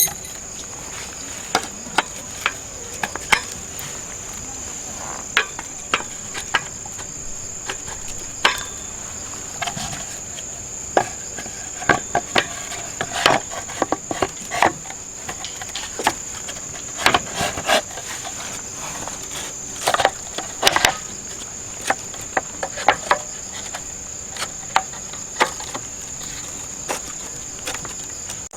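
Grass insects such as crickets chirring in a steady high drone, with irregular sharp clicks and knocks over it.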